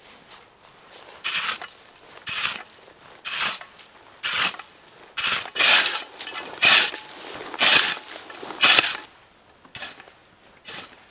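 Footsteps crunching, about one slow step a second, the steps growing louder in the second half and then stopping.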